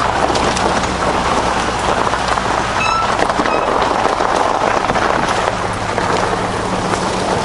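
A car being driven, heard from inside: a steady rush of tyre and road noise over a low engine hum.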